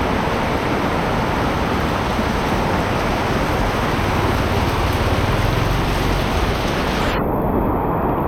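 Heavy rain pouring down in a steady loud hiss, with a low rumble building about five seconds in. Near the end the high hiss cuts off abruptly, leaving a duller rush.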